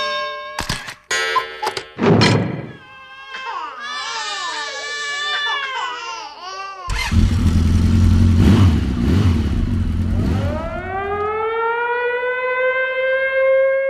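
A montage of sound effects in quick succession: a few sharp clicks and knocks, then pitched cries that waver up and down, then a loud low rumble. Near the end a siren winds up in pitch and settles into a steady wail.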